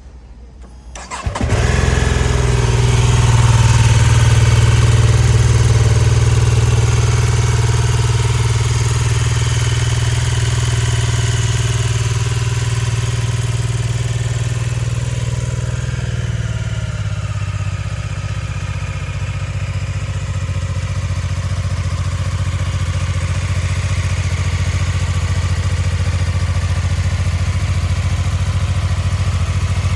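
BMW F450 GS parallel-twin engine cold-started, catching about a second in and then idling steadily. The idle sits a little higher at first and settles lower about seventeen seconds in.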